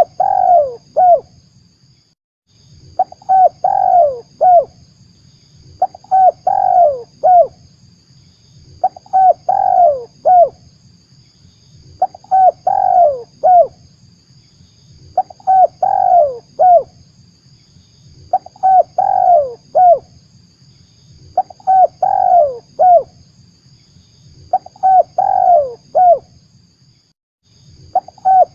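Spotted dove (tekukur) cooing, played back as a lure call for trapping. A phrase of several falling coo notes repeats about every three seconds, nine times, over a faint steady hiss.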